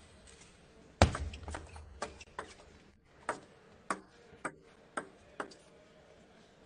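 Table tennis rally: the celluloid ball clicks sharply off the rackets and table about twice a second, after a louder thud about a second in.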